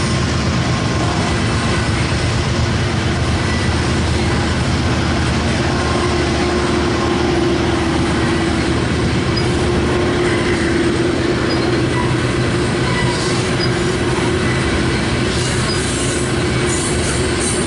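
Freight train cars rolling past on the rails with a steady, continuous rumble, with faint squealing tones from the wheels running through it.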